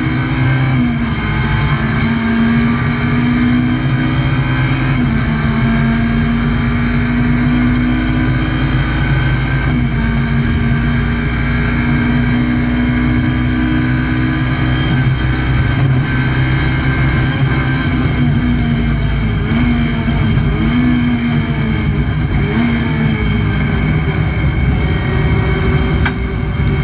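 Alfa Romeo 147 race car's 2.0 Twin Spark four-cylinder engine heard from inside the stripped cabin, running hard under load. Its note drops and climbs again at several gear changes and lifts, more often near the end.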